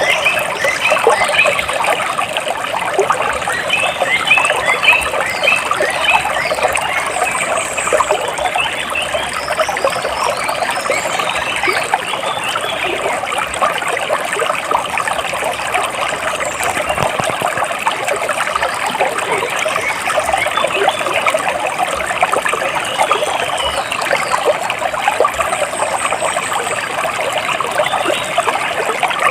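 Water splashing and trickling steadily, with birds chirping over it on and off, in quick runs of short calls that are busiest in the first several seconds.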